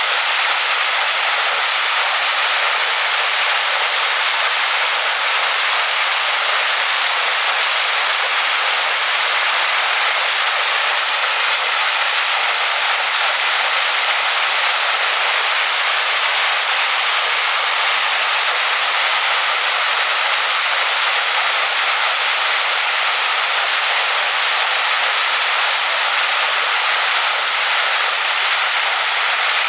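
Waterfall pouring onto rocks: a steady, even rush of falling water, mostly high hiss with little low rumble.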